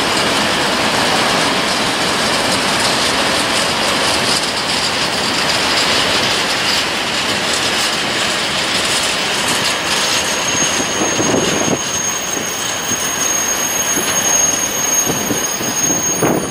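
Freight train of open-top wagons rolling past: a steady rumble and rattle of wagon wheels on the rails, with a thin, high wheel squeal that starts about ten seconds in and holds steady, and a few clickety-clack knocks over rail joints.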